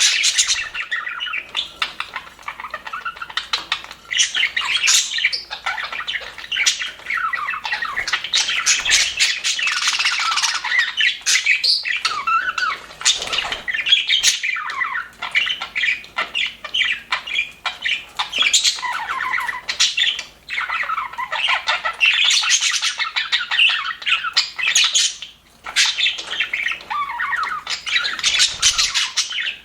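A flock of budgerigars chattering: a dense, continuous mix of warbles, chirps and squawks from many birds at once, with brief lulls now and then.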